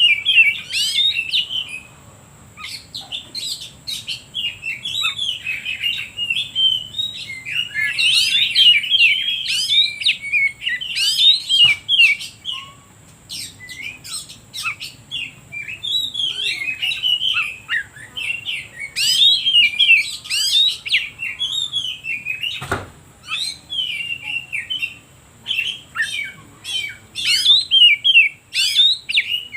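Oriental magpie-robin (kacer) singing a rapid, varied run of whistles and chirps, in bursts separated by short pauses. A single sharp click comes about 23 seconds in.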